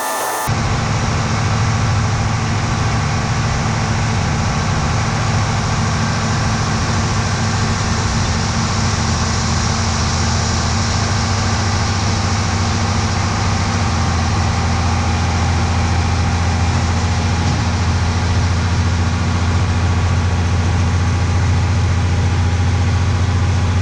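Heavy diesel farm machinery engine running steadily with a deep hum, starting abruptly about half a second in after a higher whine cuts off.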